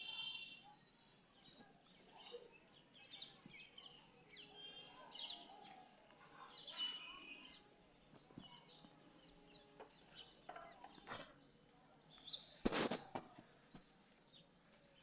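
Faint birdsong of many short, high chirps, with two sharp clicks or knocks late on.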